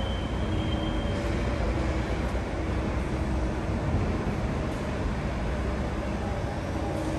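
Rubber-tyred NS-74 metro train running with a steady rumble, a thin high squeal dying away about a second in.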